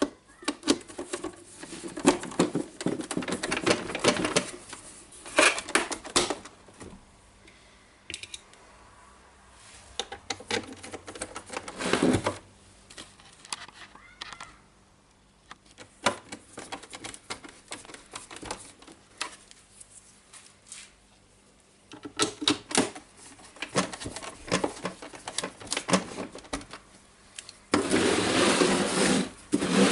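Screws being driven and the radio's plastic housing handled: bursts of rapid clicking and rattling with pauses between, and a denser, louder burst near the end.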